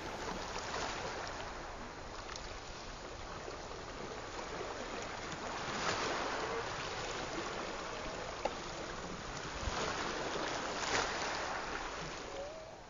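Small waves washing against a lakeshore with wind on the microphone, the wash swelling twice.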